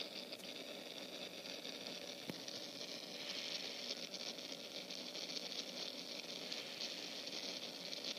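Steady, even hiss with no distinct events, strongest in the high range.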